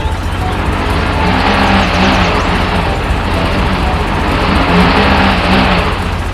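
A motor running steadily, with a low hum and a wavering engine-like tone.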